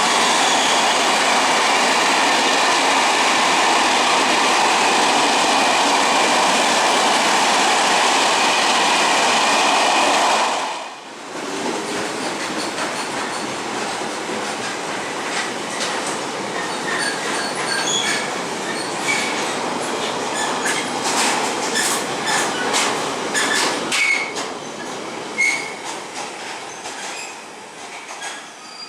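A train passing close by, loud and steady. About ten seconds in it cuts off abruptly to a quieter train rolling over rail joints, with a run of clicks and short high wheel squeaks that fade near the end.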